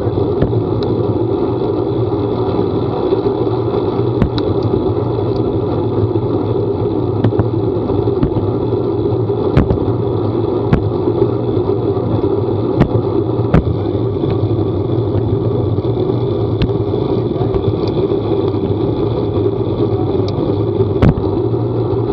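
A vehicle running at a steady speed: a constant engine drone with road noise, broken by scattered sharp ticks every second or so.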